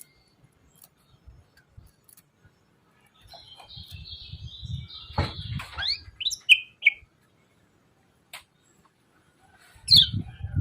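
Kecial kuning (white-eye) calling its 'ciak ciak jos' call: a buzzy high trill about three seconds in, then a quick run of sharp chirps sweeping up and down, and another loud chirp near the end.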